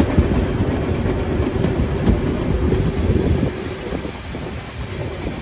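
Steam train running on the rails, a steady rumble of wheels and carriages, heard from on board. It eases off and gets quieter about three and a half seconds in.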